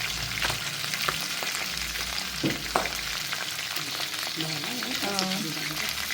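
Pork feet frying in hot oil in a karahi, a steady sizzle with scattered crackles and pops as they brown with spices.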